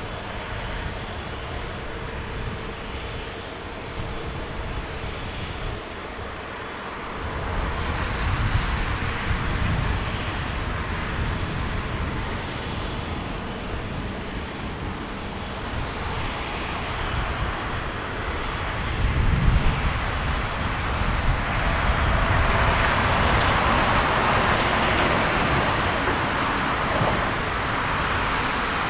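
Jet engine noise from an Airbus A350-900's Rolls-Royce Trent XWB turbofans, a steady noise that grows louder about two thirds of the way through.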